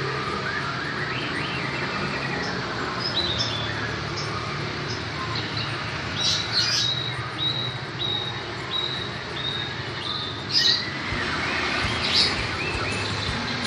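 White-rumped shama (murai batu) in its cage giving short, high chirps, with a run of evenly spaced notes through the middle and a few louder calls near the end, over steady background noise.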